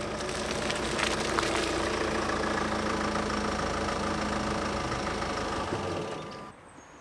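An engine running steadily, which cuts off about six and a half seconds in.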